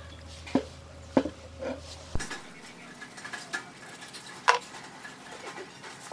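Scattered clinks and taps of small metal parts and hand tools being handled, one louder knock near the middle. A low steady hum cuts off with a click about two seconds in.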